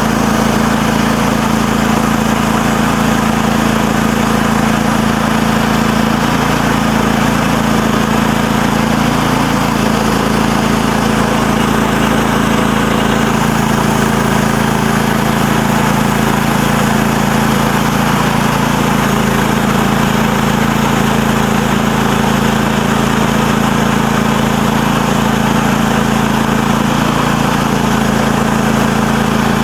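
MechMaxx SM32 manual bandsaw mill's small engine running steadily as the blade cuts a slab from a large walnut log.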